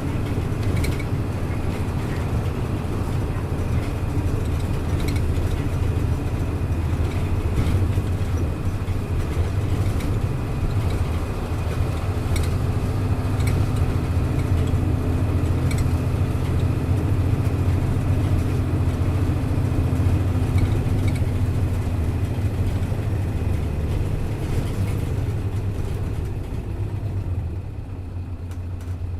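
Hino Blue Ribbon KC-HU2MMCA city bus's diesel engine pulling the bus along, heard from inside the cabin as a steady low drone whose note shifts as the engine works. Near the end the level drops as the driver eases off.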